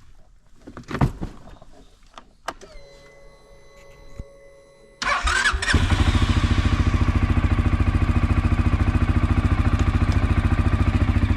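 A few knocks, then a steady whine, then the CF Moto CF400 quad bike's engine starting about five seconds in. It catches after a brief crank and settles into a steady, evenly pulsing idle.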